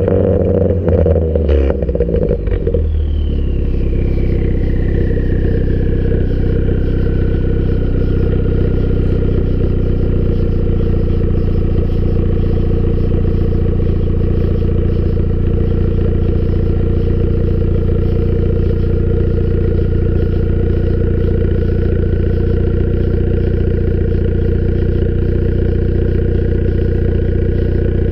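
Ford Focus ST's turbocharged four-cylinder through a catless, muffler-delete exhaust, coming down off a rev with a few sharp cracks in the first couple of seconds. It then idles steadily, with a faint whine that falls in pitch and levels off.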